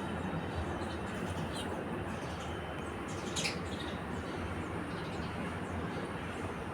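House sparrow chirps, two short ones, the clearest about three and a half seconds in, over a steady low rumble.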